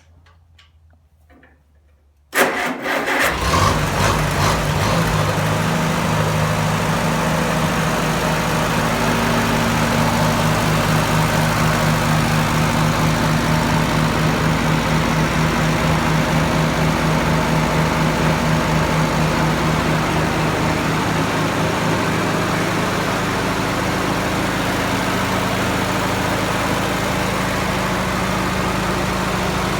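International Harvester Farmall B tractor's four-cylinder engine started about two seconds in, catching at once, then running at a steady idle with an even low pulse.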